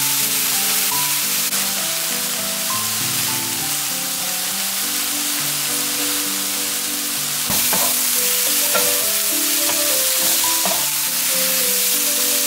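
Eggplant strips sizzling steadily as they stir-fry in a frying pan, with a few knocks of wooden spatulas turning them about halfway through. Background music plays underneath.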